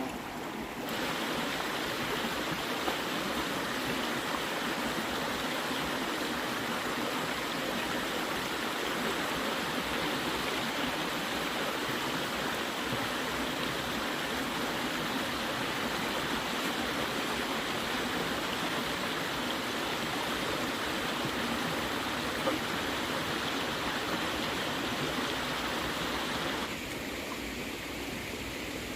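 Steady rushing noise, like running or spraying water, starting about a second in and cutting off suddenly near the end.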